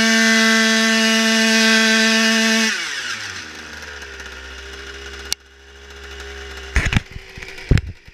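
Yamaha Jog RR scooter's small two-stroke engine, breathing through a Most performance exhaust, held at high revs. About three seconds in the throttle is released and the revs fall away to a low idle. A sharp click follows, then a couple of loud thumps near the end.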